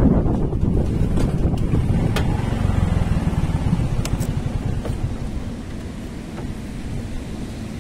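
Hero Glamour's 125 cc single-cylinder engine running as the motorcycle slows and pulls over, the wind rush on the microphone dying away and the sound gradually getting quieter, with a few light clicks in the first half.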